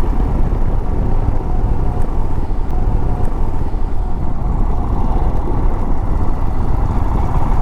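Royal Enfield Himalayan single-cylinder motorcycle riding along, its engine running under a steady low rush of wind noise on the microphone.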